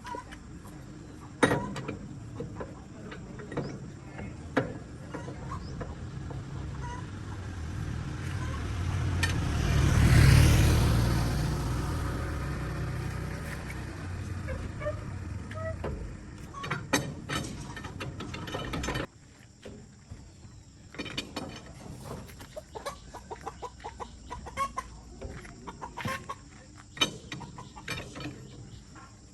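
Chickens clucking among scattered knocks and taps. A low rumble, like a passing vehicle, swells to a peak about ten seconds in and fades away. The sound drops abruptly a few seconds later.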